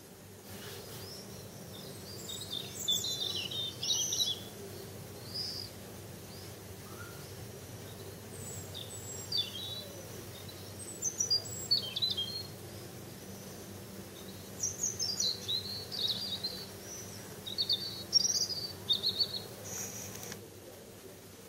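Small songbirds chirping and twittering in short, quick high-pitched phrases, coming in clusters every second or two, over a faint steady low hum.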